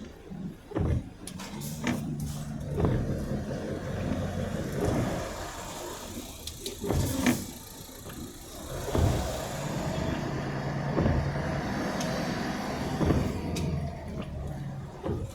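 A car engine running with a steady low hum, overlaid with repeated knocks and clunks and a rushing noise that swells for a few seconds near the middle.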